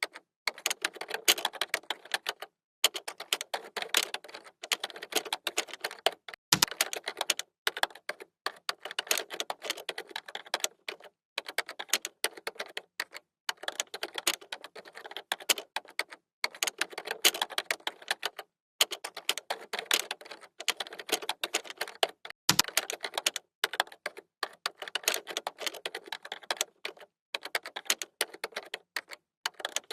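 Typing on a computer keyboard: rapid key clicks in runs of a second or two, broken by short pauses, with two heavier keystrokes along the way.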